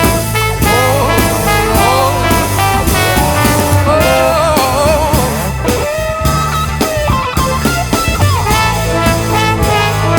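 A live band plays an instrumental break: drums and bass keep a steady groove under a lead melody with sliding, bending notes.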